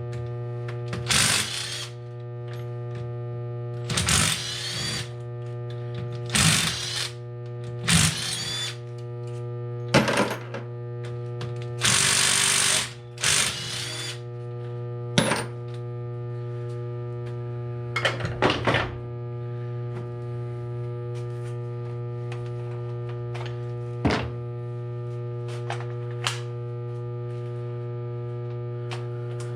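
A power driver spinning bolts out of the Honda CB900F's engine cases in about a dozen short runs, the longest nearly two seconds, over steady background music.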